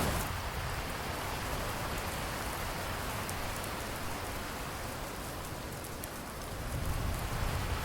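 Steady rain falling, an even hiss of many drops on surfaces, swelling slightly near the end.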